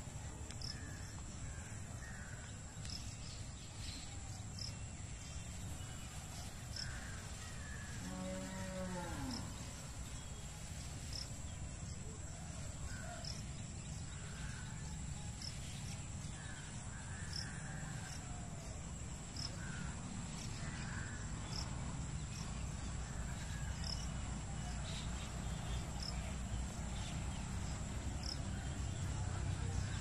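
Outdoor bird ambience: scattered short chirps and ticks, and one drawn-out call about eight seconds in. Under them run a steady high-pitched whine and a low rumble.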